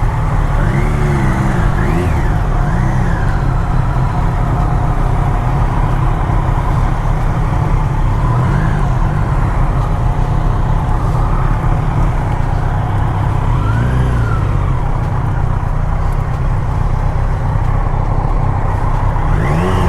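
A car running on the road, a steady low rumble of engine and road noise, with a few faint rising-and-falling voice-like sounds over it.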